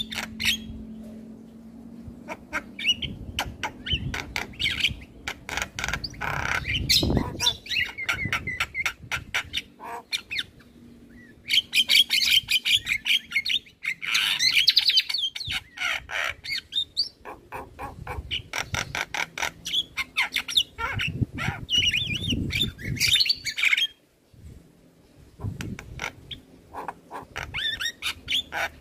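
Male Javan myna singing a long, varied chattering song of rapid clicks, harsh squawks and whistled notes, with short pauses between phrases.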